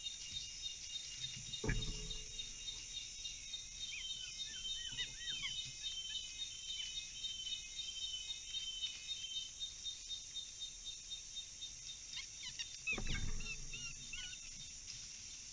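Forest ambience: insects droning steadily with a fast, regular chirping pulse, and birds giving short chirps and whistles about four seconds in and again near the end. Two dull thumps, about two seconds in and near the end, are the loudest sounds.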